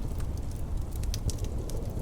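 Wood fire crackling, with frequent small sharp pops and snaps at irregular intervals over a steady low rumble of wind.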